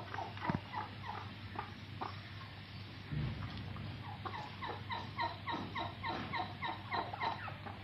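Turkeys calling: scattered short notes, then a fast, even run of repeated short calls in the second half. A dull thump comes about three seconds in.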